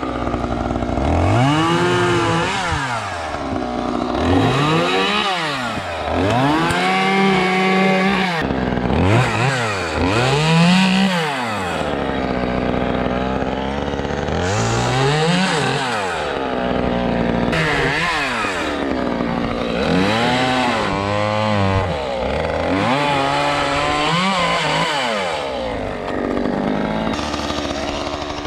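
Gas chainsaw cutting wood, its engine revving up and dropping back again and again, every two to three seconds.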